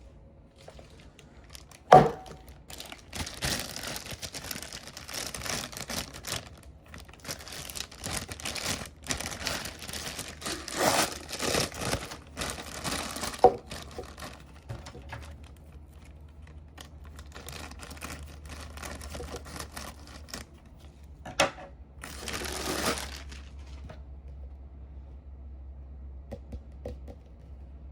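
Fast-food packaging being handled: irregular crinkling and rustling, broken by a few sharp knocks, the loudest about two seconds in. It quietens over the last few seconds.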